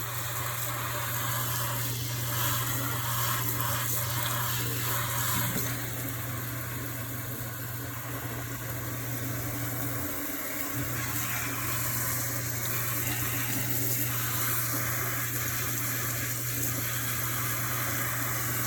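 Kitchen tap running into a sink: a steady rush of water with a low hum underneath.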